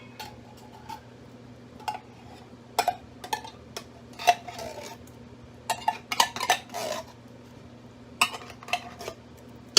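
A utensil scraping and clinking against metal cans and the Instant Pot's steel inner pot as thick condensed cream of chicken soup is emptied in, in scattered short strokes over a faint low steady hum.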